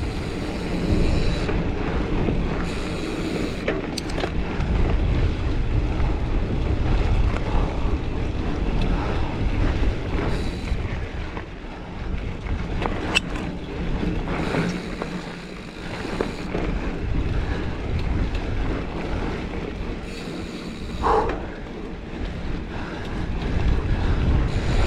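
Giant Fathom mountain bike ridden along a dirt trail: a steady rumble of tyres and wind buffeting on the camera microphone, with a few sharp clicks and knocks from the bike over bumps.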